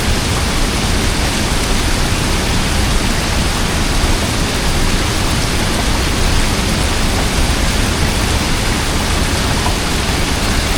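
A large river's water flowing: a steady, loud rushing noise.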